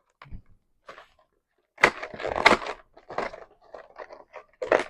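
A snack box and its wrapper being pulled at and crushed in the hands by someone struggling to open it. A few faint ticks come first, then a dense run of irregular crackling and tearing from about two seconds in.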